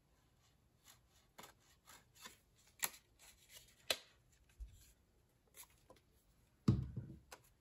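Paper card pieces being handled and glued: light scattered clicks and rustles, with two sharper ticks around three and four seconds in and a dull thump near the end.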